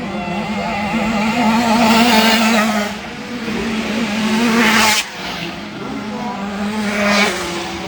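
Small 65cc two-stroke motocross bikes racing, their engines revving up in rising surges over a steady engine note. The surges come about two seconds in, just before five seconds where one drops off sharply, and again near seven seconds.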